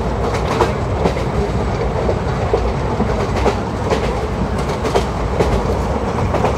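Indian Railways ICF passenger coach running along the track: a steady rumble of wheels on rail with irregularly spaced sharp clicks as the wheels pass over rail joints.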